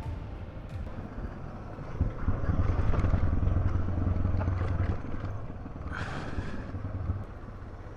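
Suzuki DR650 single-cylinder engine running while riding, louder under more throttle from about two to five seconds in, with a brief rush of noise near six seconds.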